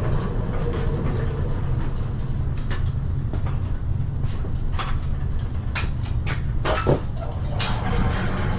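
Steady low rumble with irregular rattles, clicks and knocks, and a short squeak about two-thirds of the way through, as a loaded cart of bottled water and pop is moved.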